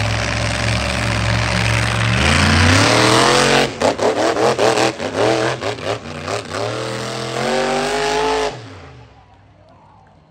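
Monster truck engine revving hard: a rising rev, a run of quick throttle blips, then another rising rev that cuts off suddenly about eight and a half seconds in.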